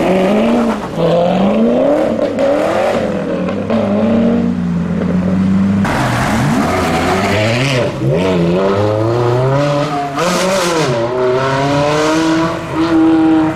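Performance cars pulling out of an exit one after another and accelerating away, each engine revving up in rising sweeps and then easing off. The sound changes abruptly between cars. A motorcycle revs near the end.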